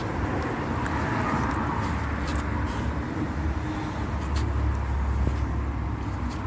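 Motor vehicle running nearby: a steady low rumble that grows stronger midway, over a general traffic hiss, with a few faint clicks.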